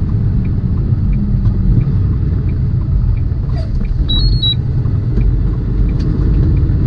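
Steady low rumble of a semi truck's diesel engine and road noise heard inside the cab as the tractor-trailer drives along. A short, high two-note electronic beep sounds about four seconds in.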